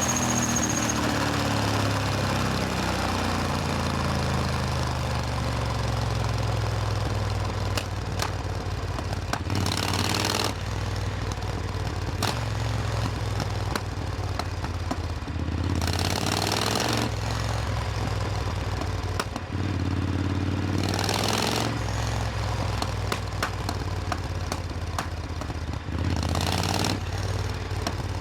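Supercharged Triumph Thunderbird Storm's parallel-twin engine running at low revs, its pitch drifting up and down. Short rushing noises come and go four times, roughly every five or six seconds.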